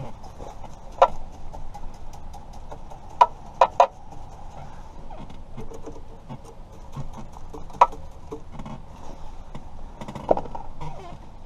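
Sharp clicks and knocks of small hard objects being handled: about six louder ones, three of them close together partway through, over many faint ticks.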